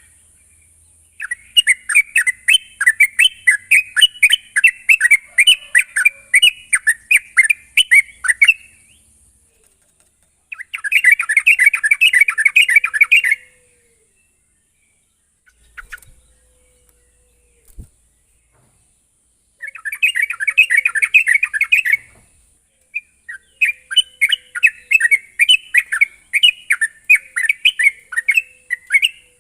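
Yellow-vented bulbul (trucuk) song: quick, bubbly chattering phrases in four bouts separated by short pauses, played as a lure recording to set a kept trucuk singing.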